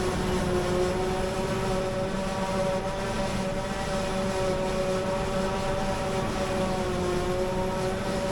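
Heavy farm machinery engines running steadily at working revs, a continuous drone with a slight waver in pitch and no breaks.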